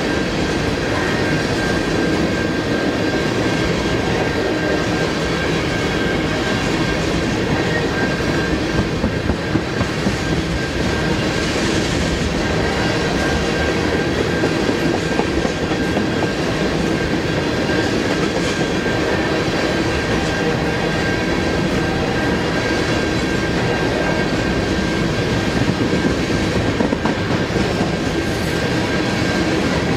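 Freight train of tank cars rolling past at close range: steel wheels rumble and clatter steadily on the rails, with a thin steady high tone running underneath.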